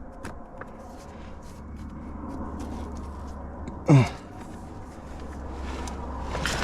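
A climber's strained groan of effort about four seconds in, falling steeply in pitch, among scattered short scrapes and clicks of body and gear against rock.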